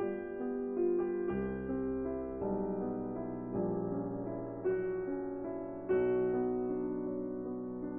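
Background music: a slow, soft piano piece, notes struck every second or so and left to ring.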